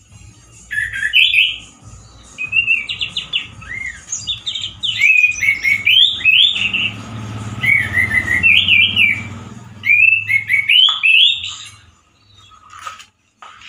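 Male orange-headed thrush singing a loud, harsh run of quick, jumping warbled phrases, which stops near the end.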